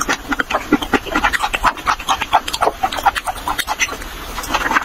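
A person chewing raw fish: loud, wet chewing and lip-smacking mouth sounds, a quick irregular run of crisp clicks and squelches.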